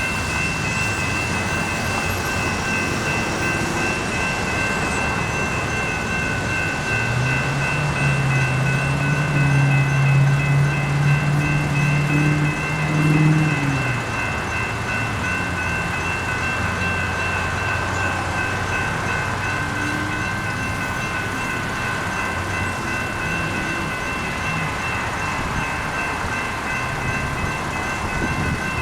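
Four General Signals electronic crossing bells ringing steadily at an activated railroad grade crossing, with no train present yet. The uploader thinks the crossing started up this early because something went wrong with the track circuits. A road vehicle's engine passes from about seven to thirteen seconds in and is loudest near the end of that stretch.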